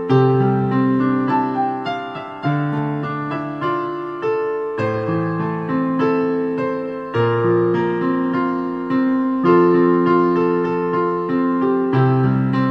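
Background music: a solo piano or electric piano playing a slow, gentle melody over sustained chords, each note struck and fading.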